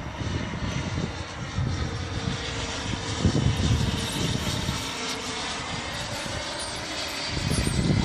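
90 mm multi-blade electric ducted fan of a radio-controlled BD-5J model jet running with a steady rushing whine, its pitch slowly shifting. Wind gusts rumble on the microphone underneath.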